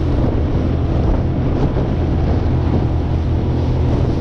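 Strong wind buffeting the microphone over the steady drone of a small aluminium boat's outboard motor running at constant speed.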